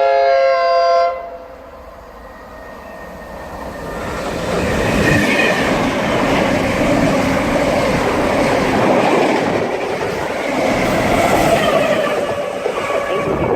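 Horn of an Intercity Mk3 set, from Driving Van Trailer 82102, sounded briefly in the first second. Then a Class 90-hauled Mk3 express passes through the station, its wheels and coaches building to a loud, steady rush from about four seconds in until the end.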